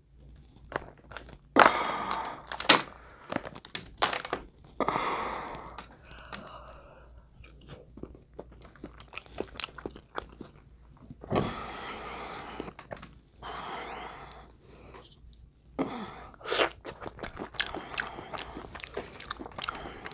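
Crab leg shells cracking and crunching in irregular sharp snaps, with close-up chewing of crab meat.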